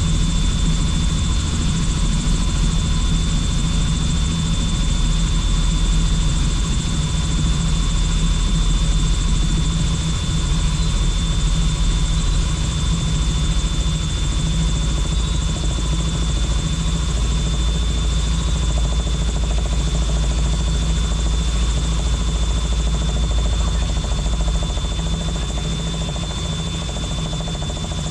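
Helicopter in flight: a steady low rotor drone with a constant high turbine whine over it, easing slightly near the end.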